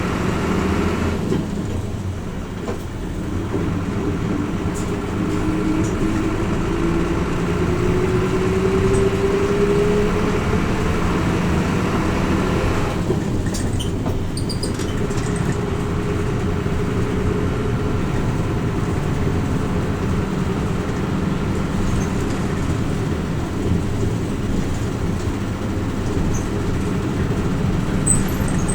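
Hino Rainbow RJ (P-RJ172BA) route bus heard from inside the cabin, its diesel engine and drivetrain running under way. A whine rises slowly in pitch over the first ten seconds as the bus gathers speed, then settles into a steady cruise.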